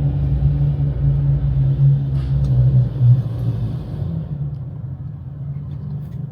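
BMW M340i's turbocharged inline-six running at low revs while the car creeps along, a steady low drone that eases off about three seconds in.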